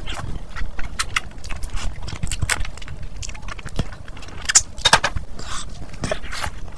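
Close-miked chewing of mutton curry and luchi eaten by hand: wet lip smacks and many sharp, short mouth clicks. A louder cluster of smacks comes about two thirds of the way in, and soft squishing near the end as her fingers mix rice into the curry.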